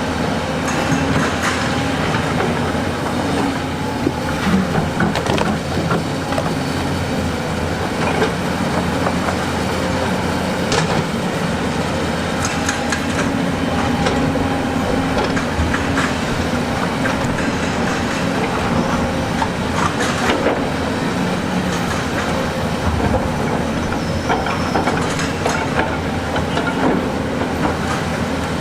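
Heavy diesel excavator engine running steadily under load, with rock clattering, knocking and grinding as stones are moved.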